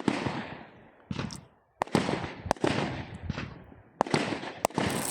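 Fireworks display going off: about six sharp bangs at uneven gaps, each followed by a fading hiss of the burst, with a denser high crackle in the last second.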